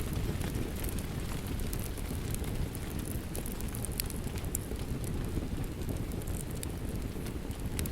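Fireplace crackling with rain falling outside: a steady low rushing noise, with scattered sharp crackles throughout.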